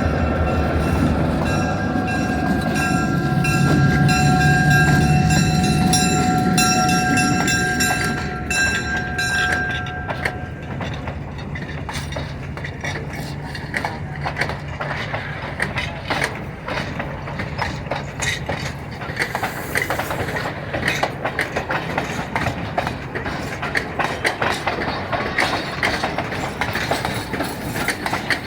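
Train running past: a heavy low engine hum with a steady high-pitched tone over the first ten seconds, then the railroad cars clattering over the rail joints in quick, irregular clicks.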